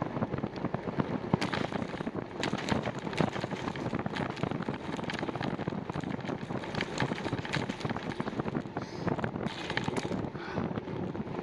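Wind buffeting the microphone of a camera on a moving bicycle, with many short clicks and rattles scattered throughout.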